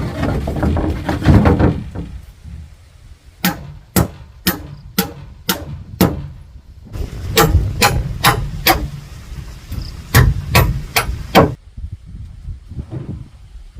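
Hammer blows, perhaps driving nails into timber or bamboo, in three runs of sharp strikes about two a second, each with a short ring. The runs have six, five and four blows. The first two seconds hold a loud clattering, rustling noise.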